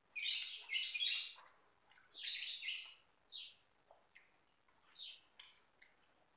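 Small bird chirping: a run of short, scratchy, high chirps, bunched in two loud clusters in the first three seconds, then a few fainter falling chirps.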